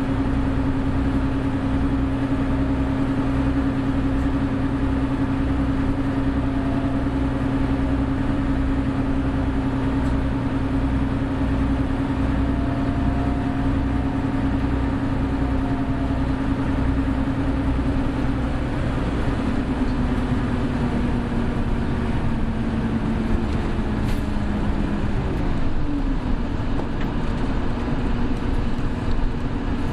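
Interior running sound of a Nagaden Bus Hino Blue Ribbon City hybrid (BJG-HU8JLFP) on the road: a steady engine and drivetrain drone with a low pulsing rumble and road noise. About two-thirds of the way through, the drone's pitch falls as the bus slows down.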